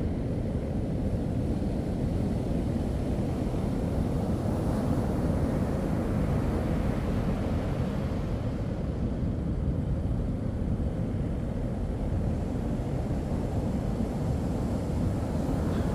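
Steady low rumble of wind buffeting the microphone and surf breaking, with no clear engine note standing out.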